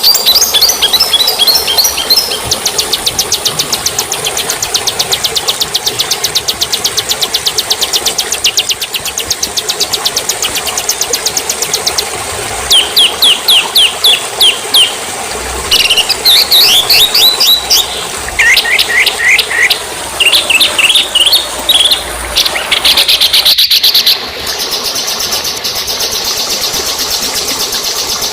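Songbirds singing: fast, high rattling trills, then bursts of sharp, quickly repeated descending whistled notes. About 24 s in the sound changes abruptly to a steady, high buzzing trill.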